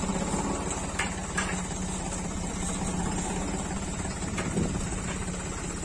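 John Deere tractor's diesel engine running steadily, with an even low chugging beat.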